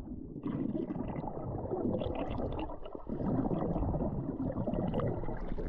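Muffled gurgling and sloshing of sea water as a person swims, steady throughout with little above a low rumble.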